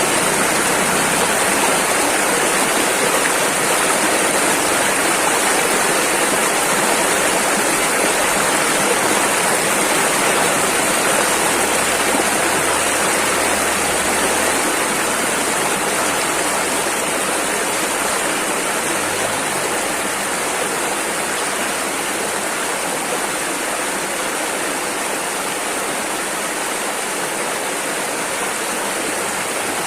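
Rushing river water, a steady, unbroken roar of rapids.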